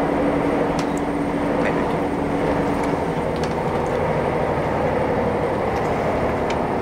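Steady rumble of a moving train heard from inside the carriage, with a steady hum that stops about three seconds in and a few faint clicks and knocks.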